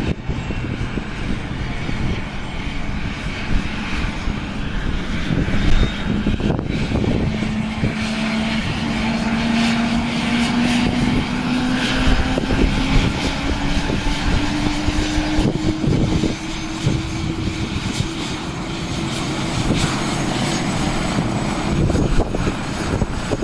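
Air-ambulance helicopter running up, its turbine and rotor tone stepping up about seven seconds in and then slowly climbing in pitch as power comes on. Strong gusty wind buffets the microphone throughout.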